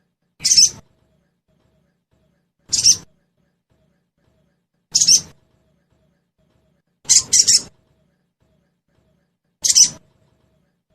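Sogon (crested jay) giving short, harsh calls, about one every two seconds, with a quick double call about seven seconds in.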